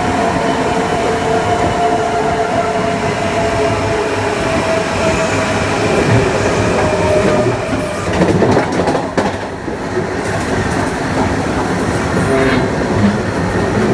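Kawasaki M9 electric multiple unit's MELCO IGBT-VVVF inverter and AC traction motors whining with two steady tones that slowly fall in pitch. After about seven seconds the whine fades into the rumble and clatter of the wheels over track joints, with brief knocks near the end.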